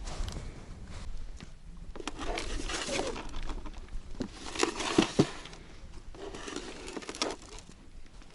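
Irregular rustling and crunching handling noise on the ice, in several clusters, with a couple of sharp knocks about five seconds in.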